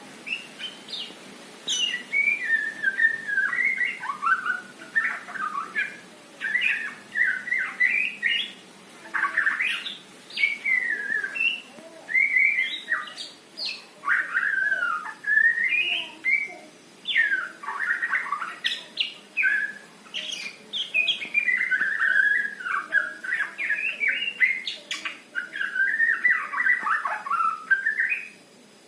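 White-rumped shama (murai batu) singing a long, varied song in the 'trotol' style, whistled phrases with quick rising and falling glides following one another with hardly a pause. The song begins about a second in.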